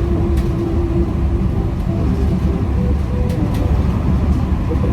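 Food truck being driven: a steady low engine and road rumble.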